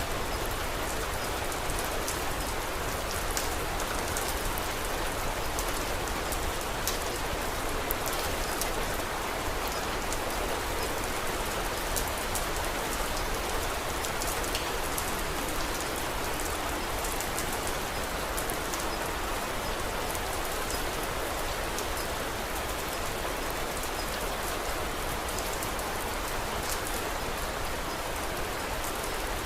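Steady rain falling on a surface, a constant even hiss scattered with many small sharp drop ticks.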